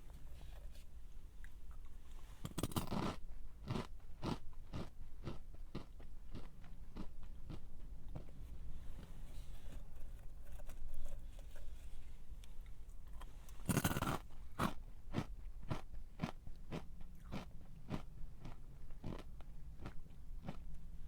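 Close-up crunching of a crunchy snack being eaten: a loud crackly bite about three seconds in and another about fourteen seconds in, each followed by steady crunching chews at about two to three a second.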